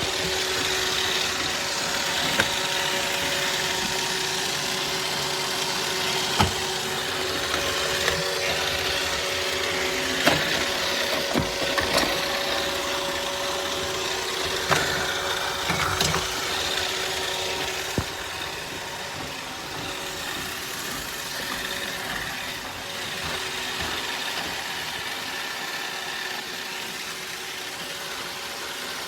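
iRobot Roomba Vac Essential (Q0120) robot vacuum running, a steady motor and brush hum with several sharp knocks scattered through the first half; the hum drops a little in level about two-thirds of the way in.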